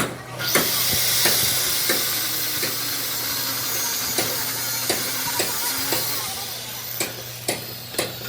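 Arc welding: a steady, crackling hiss that starts about half a second in and eases off after about six seconds, with scattered sharp clicks, over a steady low hum.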